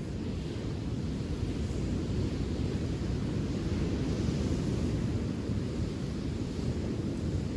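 Wind buffeting the microphone in a steady low rumble, over the hiss of surf washing on a sandy beach.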